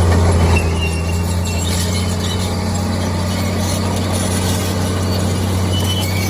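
Heavy diesel engine of earthmoving machinery running steadily with a constant low hum, with brief high squeaks a few times.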